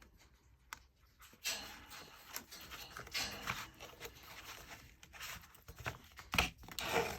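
Thread being pulled through the sewing holes of a paper book signature, with paper rustling and handling as it is drawn. There are several swishing pulls, a sharp tap about six seconds in, and a longer swishing pull near the end.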